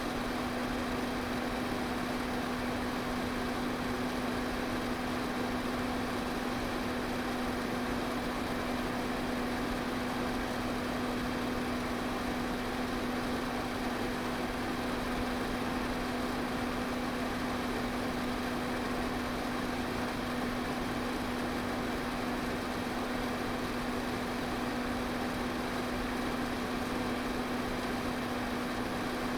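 Electric fan running steadily: a constant rush of air over a low, even motor hum.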